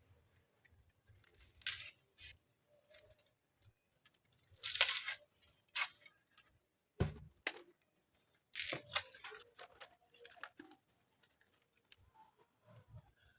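Dry twigs being handled and snapped for kindling: irregular crackles and short scrapes, with one sharp snap about seven seconds in.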